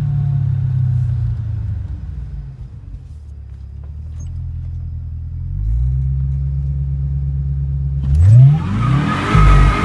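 Cadillac CTS-V's V8, fitted with an aftermarket ERA intake, heard from inside the cabin. It runs at a steady low note that fades for a few seconds and then picks back up. About eight seconds in it revs up under full throttle, its pitch rising quickly and the sound getting much louder as hard acceleration begins.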